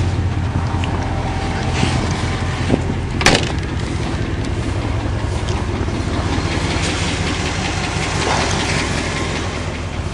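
Car engine running steadily with a constant hiss of road or wind noise over it, and one short knock about three seconds in.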